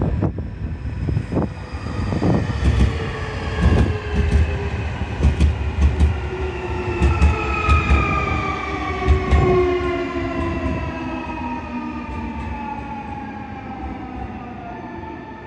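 Nankai Koya Line electric train braking, its traction motor whine falling slowly in pitch as it slows, with the wheels clacking and thudding over rail joints for most of the first ten seconds.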